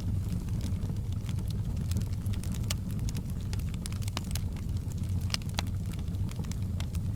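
Log fire in a hearth crackling, with frequent sharp pops and snaps over a steady low rumble.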